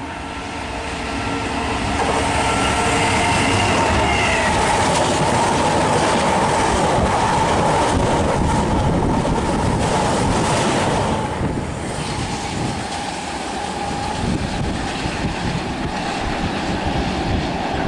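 A Class 66 diesel locomotive, with its two-stroke V12 engine, hauling a freight train through the station at speed. The locomotive's engine sound builds and then falls in pitch as it passes, about four seconds in, followed by a long, steady rumble and clickety-clack of the wagons' wheels over the rail joints.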